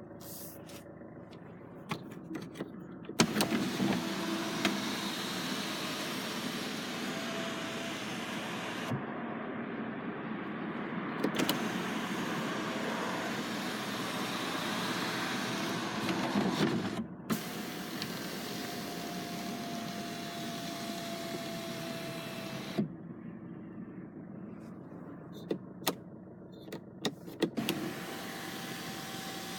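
A car's electric motor running in several long stretches: a steady hum and hiss with a faint whine held at one pitch. Each stretch starts and stops with a click.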